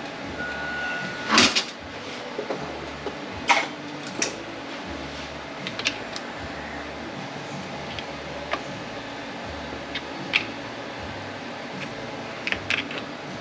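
Scattered metal clinks and knocks from hand tools and transmission parts being handled during teardown, loudest about a second and a half in and again at three and a half seconds, over a steady background hum.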